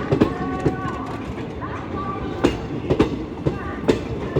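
ICF passenger coaches of an express train rolling past over rail joints: a steady rumble with sharp wheel clacks coming at uneven spacing, often in pairs.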